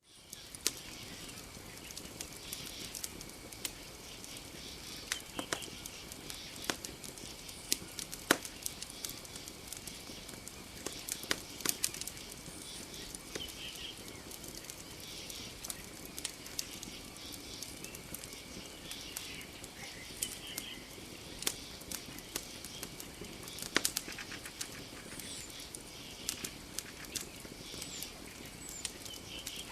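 Campfire crackling, with sharp pops coming irregularly, a few louder ones standing out. Beneath them a steady high-pitched drone and scattered short chirps from night creatures.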